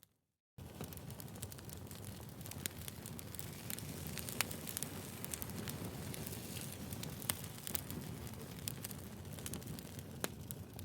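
Wood fire crackling, with frequent sharp pops over a steady low rumble of burning logs. The sound drops out to silence for about half a second at the very start, then comes back at full level.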